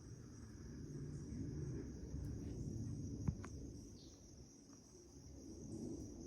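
Crickets trilling steadily in one continuous high tone, over a low rumble that swells and fades, with a single sharp click about three seconds in.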